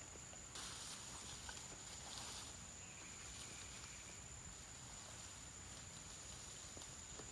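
Faint outdoor ambience with a steady, high-pitched insect trill. A rush of rustling noise starts about half a second in and fades after about two seconds.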